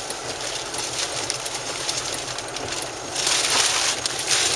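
Road and engine noise inside a moving car, a steady rumble under an even hiss, swelling into a louder rush of noise about three seconds in.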